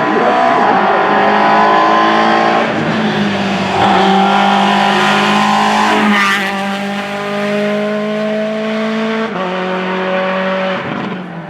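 Rally car accelerating hard up through the gears, its engine note climbing and then dropping back at each of several quick upshifts. A brief harsh rasp comes about six seconds in.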